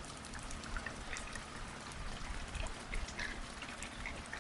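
Heavy rain falling, with many separate raindrops ticking close by over a steady low rumble.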